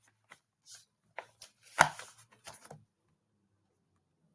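A few scattered small clicks and taps of something being handled, the loudest a sharp click just under two seconds in.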